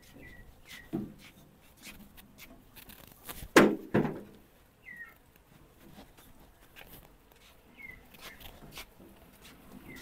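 Birds chirping briefly now and then, each a short falling note. There are a few sharp thumps, the loudest two about three and a half and four seconds in.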